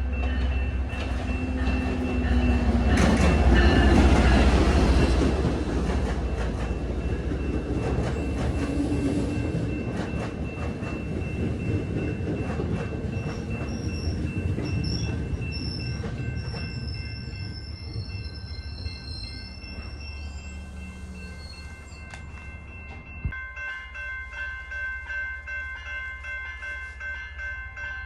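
A train passing close by, loudest about four seconds in, then rumbling away and fading over some twenty seconds, with wheels clicking over the rail joints.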